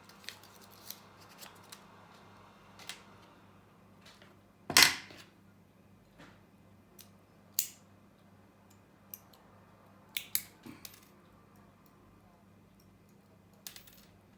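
Scattered clicks and light knocks of small tools and a fresh blade being handled on a repair bench, with one louder clack about five seconds in and a quick cluster of clicks around ten seconds. A faint steady hum sits underneath.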